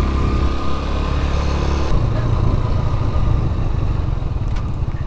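Motorcycle engine running at low speed. Its note changes about two seconds in, and near the end it settles into an even, rapid throb.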